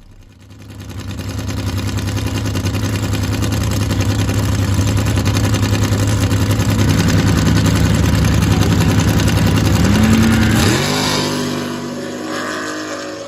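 Race car engine at full throttle on a drag run, growing loud about a second in and holding steady. Music comes in near the end as the engine fades.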